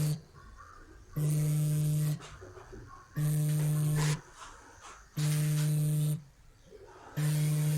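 A low buzzing alarm tone, one steady pitch, sounding for about a second and stopping for about a second, again and again at an even pace.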